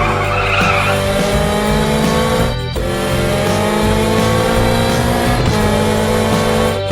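Cartoon car engine sound effect revving with a slowly rising pitch, cutting off briefly and starting again about 2.7 s in and near the end, over background music.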